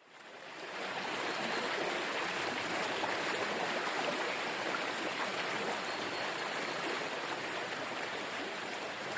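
Steady rushing water ambience, fading in over the first second and then holding even, with no music.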